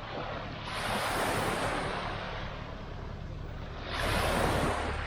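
Small waves breaking and washing up the sand, twice, each a rising then fading hiss of surf.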